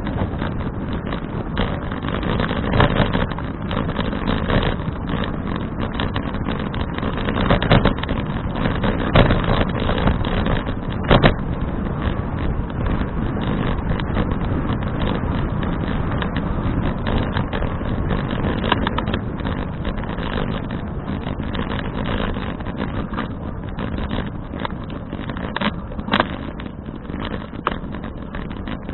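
Steady rush of wind on an action camera's microphone and road noise from a bicycle being ridden, with a few sharp knocks scattered through.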